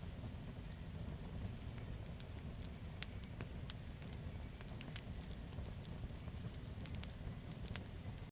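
Campfire burning, with a steady low rumble and many scattered sharp crackles and pops from the wood.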